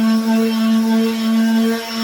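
Electric power sander running steadily on a wooden tabletop, a constant motor hum with a brief dip near the end.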